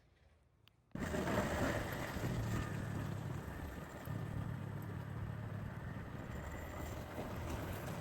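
Motorbike under way: engine running with wind rushing over the microphone. It starts abruptly about a second in, after near quiet, and holds steady.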